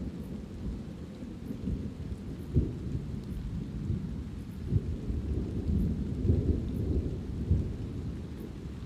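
Thunder rumbling on continuously, with several louder surges in the rumble, over light rain.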